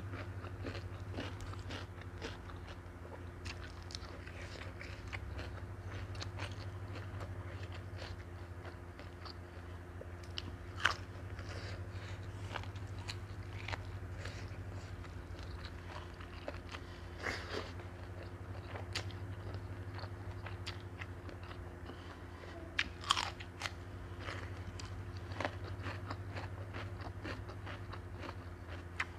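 Close-miked eating: chewing and biting a noodle salad with wet mouth clicks and crunches of crisp raw vegetables, a few louder crunches standing out, over a steady low hum.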